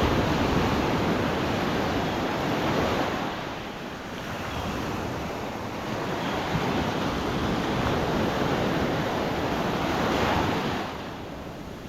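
Gulf of Mexico surf breaking and washing up a sandy beach, a steady rush that swells and eases with the waves. It drops to a lull about four seconds in and again near the end.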